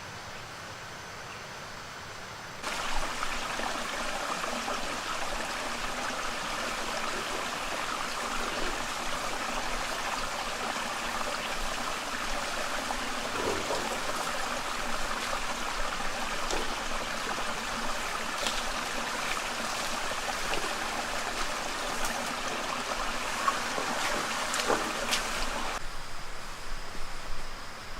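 Water running steadily, starting abruptly about three seconds in and cutting off shortly before the end, with a few scattered splashes or clicks in it.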